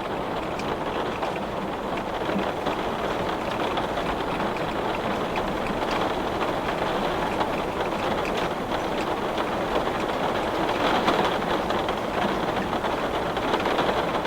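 Heavy rain falling on a glass pane: a steady dense hiss of rain with many small sharp taps of individual drops hitting the glass.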